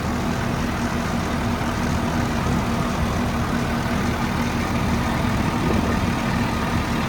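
Tractor's diesel engine running steadily, a constant low drone with a steady hum.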